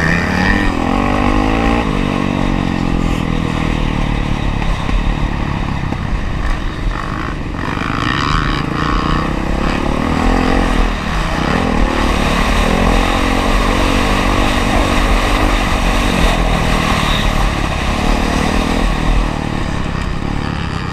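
Honda CRF450R's single-cylinder four-stroke engine running hard, its pitch repeatedly rising under throttle and falling off as the rider rolls off.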